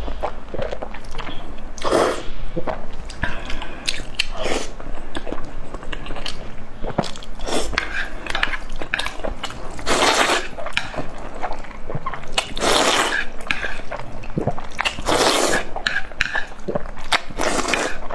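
Close-miked eating: crisp bites and chewing, with a loud crunch every few seconds between steady small crackles and clicks.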